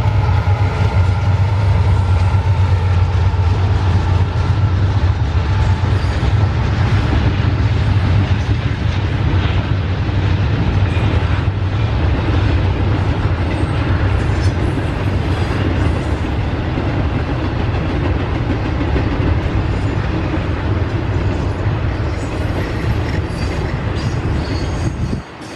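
Norfolk Southern intermodal freight train passing: a loud low diesel locomotive drone in the first few seconds gives way to the steady rumble and clickety-clack of the cars rolling by.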